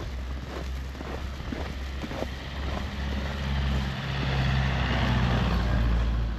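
A motor vehicle passes close by. Its engine hum and tyre hiss build from about halfway through and are loudest near the end. Underneath are footsteps crunching in snow at about two a second and a low wind rumble on the microphone.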